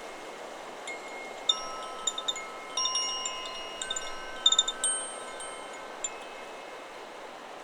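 Chakra Chimes 'Solar Plexus' wind chime swung by the wind. A flurry of strikes with ringing tones runs from about one and a half seconds in to about five seconds, loudest near four and a half seconds, then one more strike near six seconds. A steady rush of wind lies under it.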